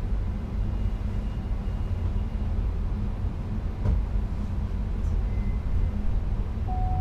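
NS Sprinter Lighttrain (SLT) electric multiple unit running along the line, heard as a steady low rumble inside the driver's cab. A single sharp click comes about four seconds in, and a short steady tone starts just before the end.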